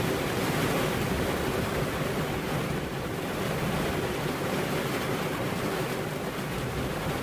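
Steady rain, an even rushing hiss that holds level throughout.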